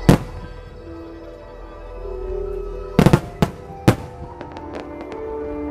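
Fireworks shells bursting in a starmine display: a sharp bang right at the start, then three or four bangs in quick succession about three seconds in, followed by light crackling. Music with long held notes plays throughout.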